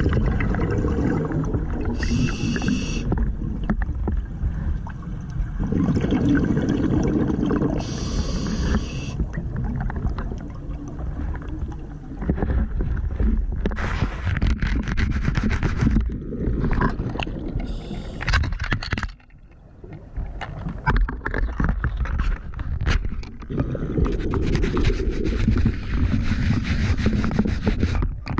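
Scuba diver breathing through a regulator underwater: short hisses of inhalation through the demand valve, followed by long bubbling rumbles of exhaled air. In the middle come a run of sharp clicks and scrapes.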